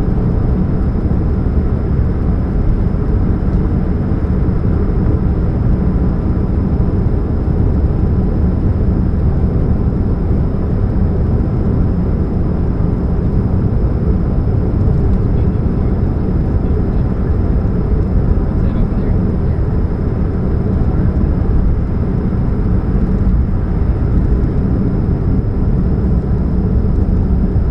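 Steady low hum and rumble from a 2013 Chevrolet Spark, unchanging throughout, which the owner traces to a leaking catalytic converter.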